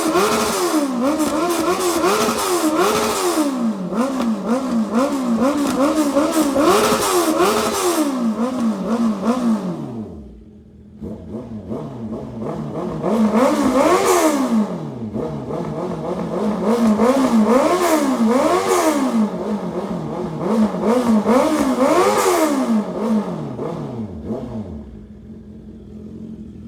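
Motorcycle with an aftermarket full exhaust system being revved in quick, repeated throttle blips, the engine note rising and falling with each one. The engine drops back about ten seconds in, then revs up again in a second series before settling lower near the end.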